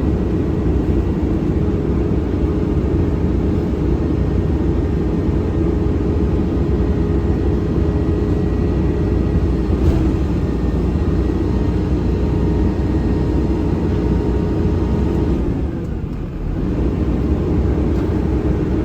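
Garbage truck's diesel engine running steadily, with a steady hum over it and a brief drop in level about sixteen seconds in.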